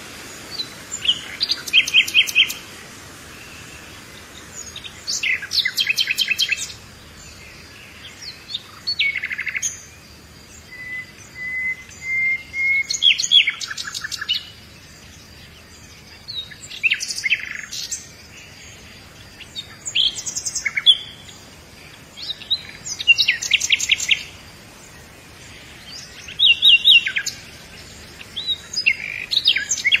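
Songbirds singing: short high chirping and trilled phrases, about ten of them, coming every few seconds over a quiet outdoor background.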